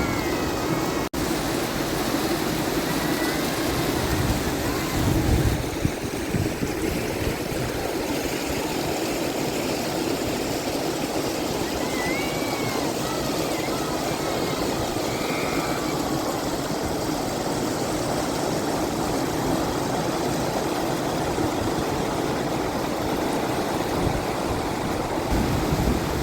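Steady rushing noise, with a few faint high chirps now and then.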